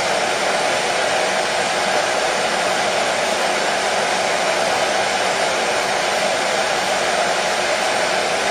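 Hair dryer running steadily, an even whooshing hum of fan and airflow with no change in pitch or level.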